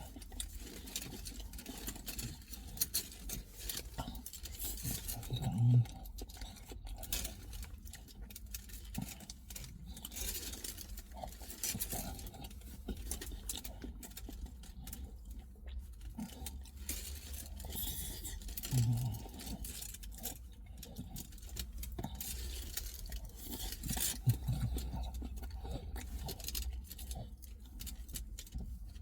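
Quiet eating sounds: someone biting into and chewing a pork doner kebab, with scattered light clicks and rattles throughout.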